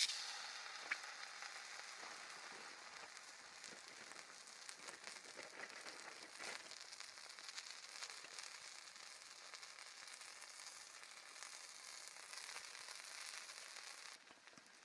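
Food sizzling in a hot frying pan over a small campfire. The sizzle flares loudly at the start, then settles into a steady fine hiss with small crackles and a single sharp pop about a second in.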